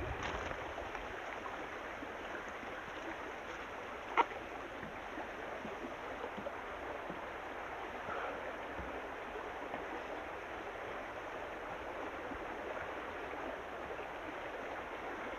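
River water running steadily below, a continuous rushing hiss. A single sharp click sounds about four seconds in.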